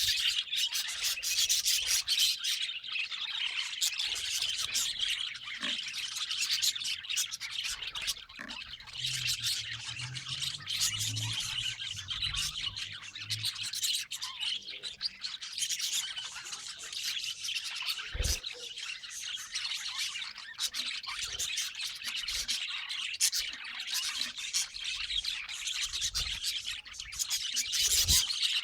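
Budgerigars chattering and warbling nonstop, a dense stream of high chirps and squawks, with a few low bumps.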